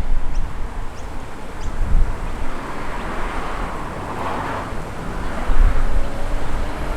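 A car driving slowly past, its engine and tyre noise swelling to a peak about four seconds in, with wind buffeting the microphone.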